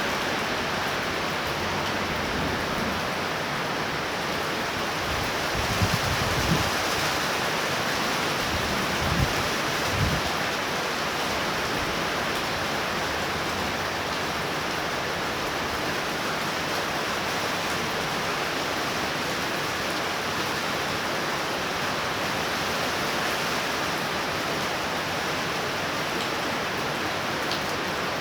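Torrential rain pouring down in a steady, even downpour during a thunder shower. A few brief low thumps come about six and ten seconds in.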